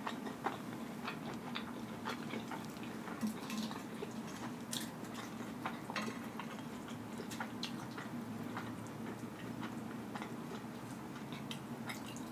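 Close-miked chewing of soft, cheesy meatballs, with small wet mouth clicks and, now and then, a light tick of a metal fork in the bowl, over a steady low hum.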